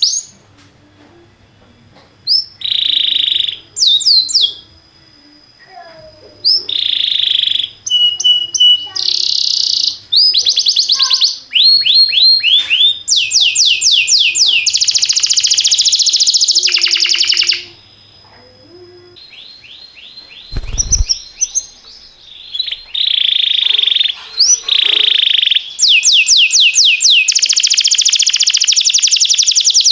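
Canary singing in phrases of rapidly repeated notes, quick trills of falling chirps, with short pauses between phrases. A brief low thump comes about two-thirds of the way through.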